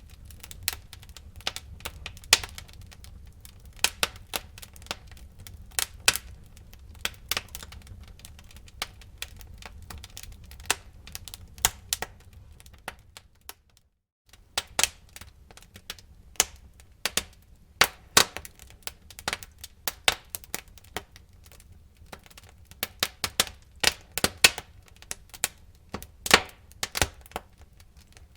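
Wood fire in a fireplace crackling, with irregular sharp pops and snaps over a low rumble. The sound cuts out for under a second about halfway through.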